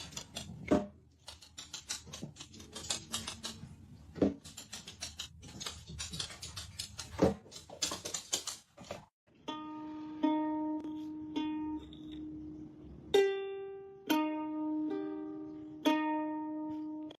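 Irregular sharp clicks and taps for about the first half, then a series of single plucked string-instrument notes, each ringing and fading before the next.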